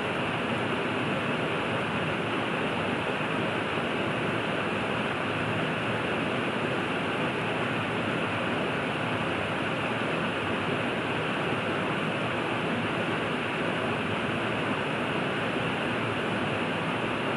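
A river rushing: a steady, unbroken wash of flowing water.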